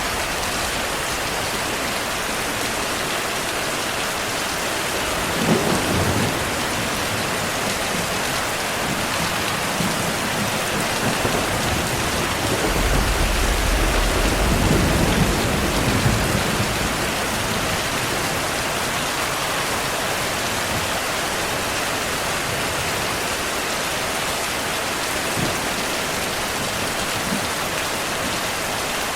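Steady heavy rain, with a thunder crack about five seconds in and a longer rolling rumble of thunder from about 12 to 17 seconds in.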